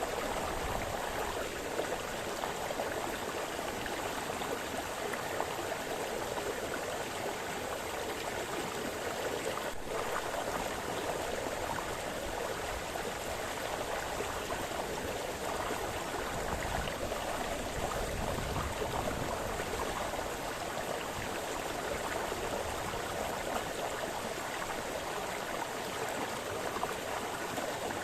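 Small forest brook splashing and burbling over stones, a steady continuous water sound.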